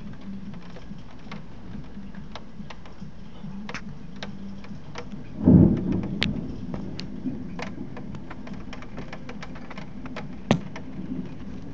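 Thunderstorm rain falling steadily, with many drops ticking sharply close by, and a short, loud, low boom about halfway through.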